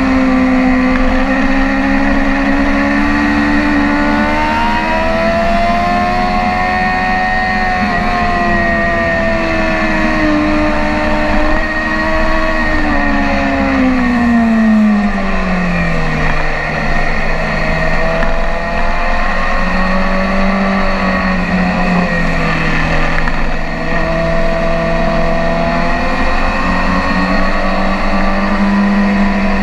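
BMW S1000RR inline-four sport-bike engine running hard at speed on track. Its pitch rises and falls with throttle and gear changes, falls steeply about halfway through, then climbs again. A steady rush of wind noise sits underneath.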